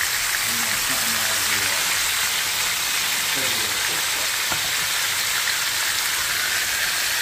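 Unbreaded pork chops sizzling steadily in hot oil in a frying pan, an even crackling hiss of shallow frying.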